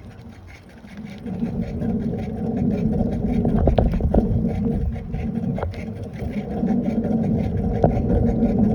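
Wind buffeting a phone microphone and tyres rolling on pavement during a bicycle ride: a low rumble that swells about a second in, with a few sharp clicks and rattles.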